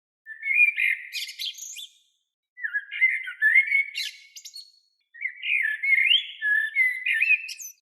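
A songbird singing three phrases of about two seconds each, made of quick notes sliding up and down in pitch, with short silent gaps between them.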